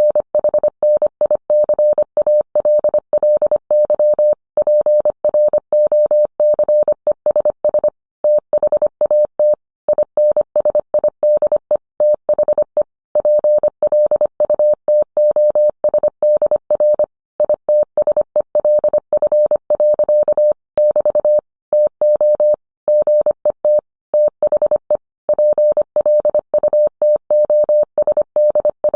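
Morse code sent as a single steady beep tone, keyed on and off quickly in dots and dashes with short gaps between letters and words.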